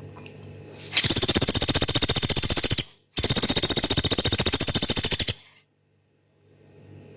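Pelatuk beras, a small woodpecker, giving two long, very fast high-pitched rattling trills of about two seconds each, split by a short break. This is the long, rough trill that bird keepers call 'nembak panjang kasar'.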